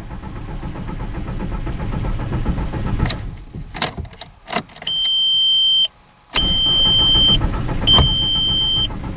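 Starter motor cranking the VW TDI diesel engine in bouts without it firing, broken by a few clicks, with a steady high-pitched tone sounding three times during the later cranking. It is a no-start with the accelerator floored, which the owner traced to corroded electrical contacts.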